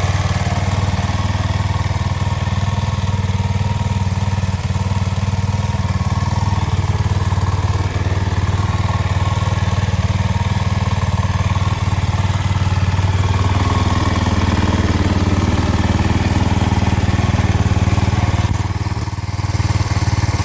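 2007 Husqvarna TE 450's single-cylinder four-stroke engine idling steadily while warming up after a cold start, with a brief dip in level near the end.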